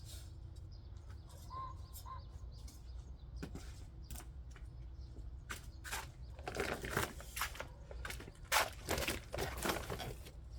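Steady low rumble of outdoor ambience with two brief faint bird chirps early on; from about six seconds in, a busy run of rustling and scraping sounds from handling and scattering on the field.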